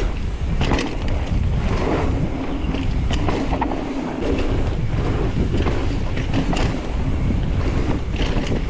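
Wind buffeting the microphone of a mountain bike riding down a dirt trail, with tyre noise and the bike's short rattles and knocks over bumps.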